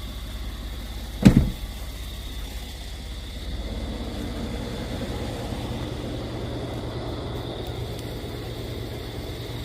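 Truck engine running with steady rumble and road noise from inside the cab, with a single sharp thump about a second in.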